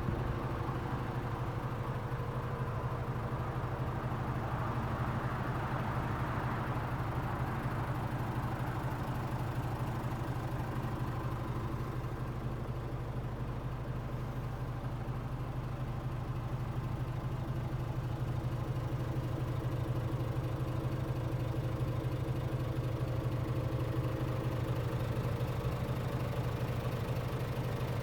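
Scania S500's 500 hp Euro 6 six-cylinder diesel engine idling steadily.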